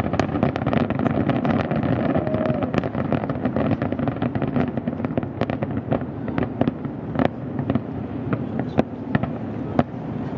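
Large aerial fireworks display in its finale: a dense, rapid crackle of bangs and bursts that thins out to scattered single bangs over the last few seconds.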